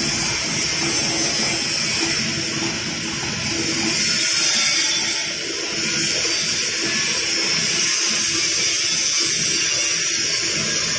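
Cutlery and napkin packing machine running with a steady hissing, whirring noise and no distinct strokes.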